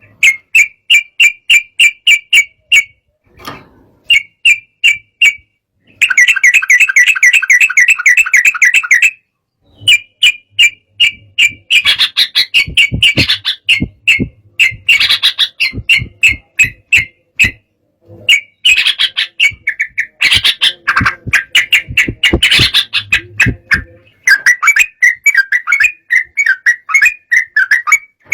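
Yellow-vented bulbul (trucukan) in agitated song: runs of short, sharp chirps about three a second, broken by brief pauses, with a dense fast trill and busier, varied phrases. It is the excited song that bird keepers play to provoke rival birds into singing.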